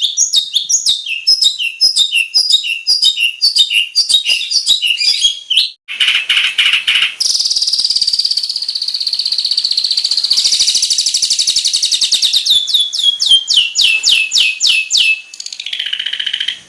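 Long-tailed shrike (cendet) singing a varied, mimicry-filled song. It opens with quick repeated chirps at about four a second, then a buzzy phrase, a long rapid trill, and a row of falling whistles at about three a second. Hard breaks near six seconds and near the end suggest separate recordings spliced together.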